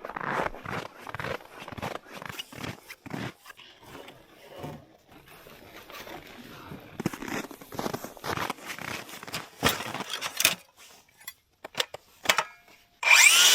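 Crunching footsteps in hard, very cold snow, stepping irregularly. Near the end a power tool starts up suddenly and loudly.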